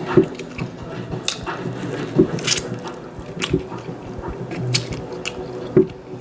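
Close-up wet chewing and smacking of a person eating a buttery seafood boil, with irregular sharp clicks and crackles.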